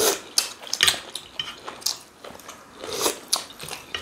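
Close-up eating sounds of chicken from pepper soup being bitten and chewed: an irregular run of short wet smacks and clicks.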